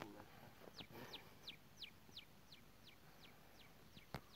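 A bird calling faintly in a long run of short, high notes, each sliding downward, about three a second. A single sharp click sounds near the end.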